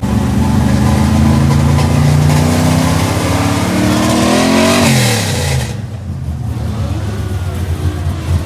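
Car engine revved hard at a rev battle, its pitch climbing over a couple of seconds, then dropping sharply about five seconds in and settling back to a quieter idle.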